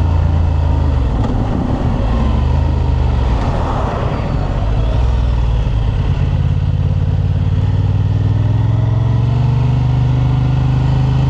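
Honda Transalp motorcycle's parallel-twin engine running under way, with wind and road noise. The engine note drops for a couple of seconds as the bike slows, then picks up and holds steady, rising slightly near the end.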